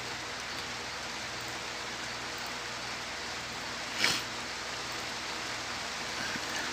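Steady rain falling, an even hiss, with one brief louder burst of noise about four seconds in.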